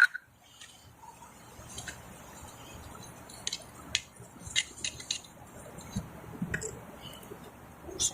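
Small handling sounds of PVC pipe fittings being wiped with cleaner before gluing. A sharp click at the start is followed by scattered short squeaky clicks, bunched in the middle.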